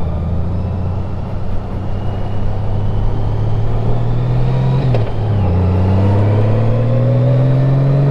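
Honda Gold Wing motorcycle engine pulling under acceleration, its pitch climbing steadily, dropping at a gear change about five seconds in, then climbing again.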